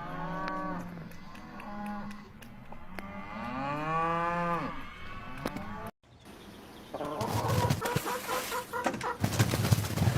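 An animal's long drawn-out calls, three or four of them, each about a second long, rising and then falling in pitch. After a sudden cut about six seconds in, a busy noisy stretch follows with many short strokes and quick, choppy calls.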